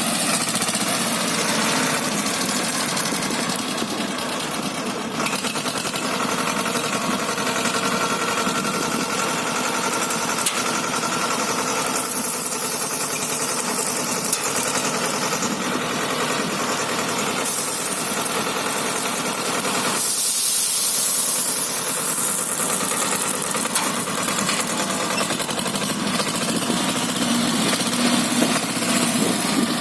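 Swaraj 724 tractor's diesel engine running steadily while working a front loader, its sound shifting a few times.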